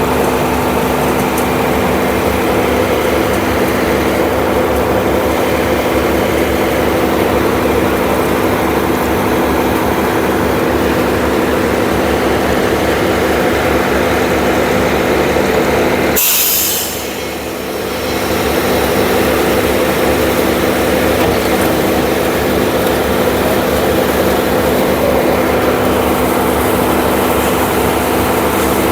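Heavy diesel engine of construction machinery running steadily at a constant pitch. A little past halfway there is a short sharp hiss, and the noise dips briefly before the engine comes back to the same steady note.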